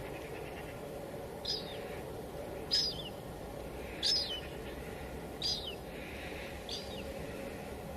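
Steady hiss of light rain (drizzle) falling, with a bird calling over it: five short, falling calls at even spacing, about one every second and a third.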